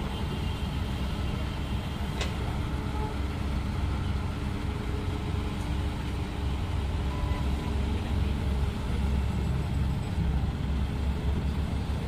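Steady low rumble of motor traffic, with a faint click about two seconds in.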